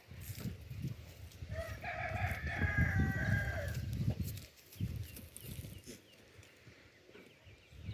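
A rooster crowing once, a call of about two seconds starting about a second and a half in, over low rumbling and knocks.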